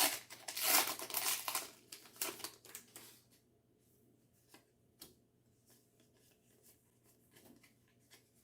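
Foil booster pack wrapper being torn open and crinkled for about three seconds, then a few faint ticks.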